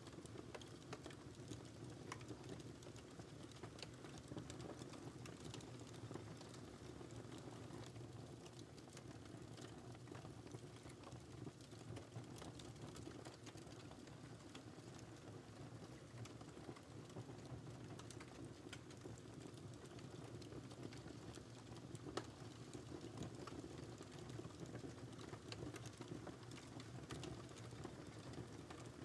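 Wood fire crackling in a fireplace: frequent small snaps and ticks over a steady low rustle, with one sharper pop a little past the middle.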